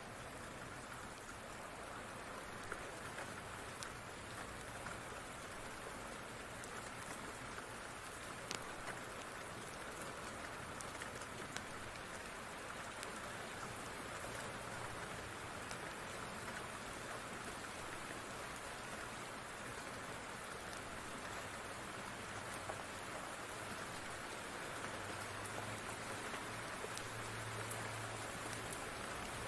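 Steady rain falling, with scattered faint sharp ticks through it. A low rumble swells in near the end.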